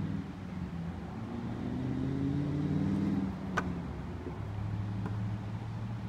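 Engine of a vehicle driving past on a nearby road, its note slowly rising and falling, with a steadier engine tone later on. There is one sharp click about three and a half seconds in.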